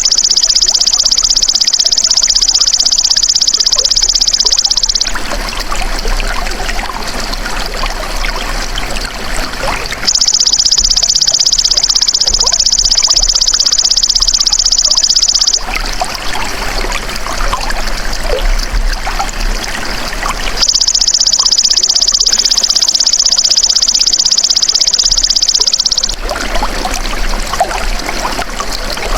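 Belalang emas insect calling in high, buzzing trills about five seconds long, three times roughly ten seconds apart. Steady trickling water runs underneath.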